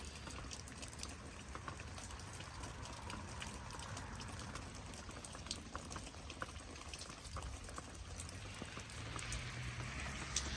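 Rain falling and dripping, scattered drops and ticks over a steady hiss of wet weather. Near the end a low hum grows louder.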